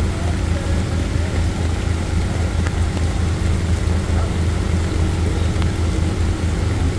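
Off-road Maruti Gypsy 4x4's engine running steadily at idle, a low even rumble.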